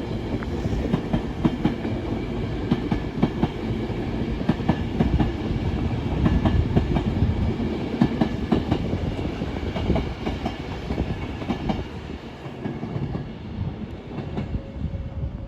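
Passenger train running through the station, its wheels clicking over the rail joints with a heavy rumble, dying away over the last few seconds.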